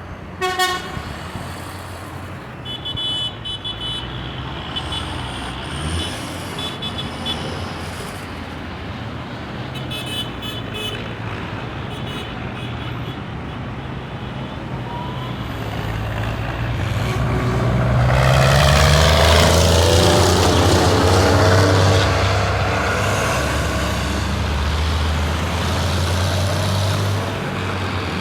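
Tractor engines running as tractors drive past in a parade. One passes close about two-thirds of the way through, growing louder and then easing off.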